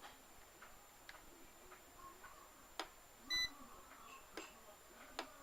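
Faint scattered clicks and taps, as of buttons or small plastic parts being handled, with one short electronic beep a little past three seconds in; three sharper clicks stand out around it.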